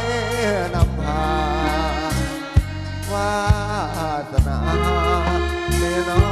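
Thai mahori-style folk band playing: a wavering melody with vibrato and pitch glides over a steady low bass, with a few sharp drum strokes.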